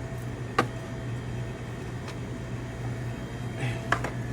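Steady low hum, with one sharp click about half a second in and a couple of lighter clicks near the end as small items are handled.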